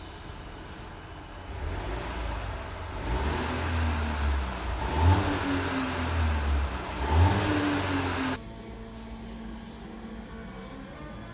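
Car engine with ignition misfires being revved in several blips, the pitch rising and falling. About eight seconds in it drops abruptly to a quieter steady hum.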